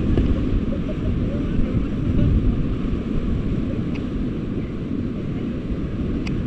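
Whitewater rapids rushing around a raft, mixed with wind buffeting the microphone: a loud, steady, low rumbling noise.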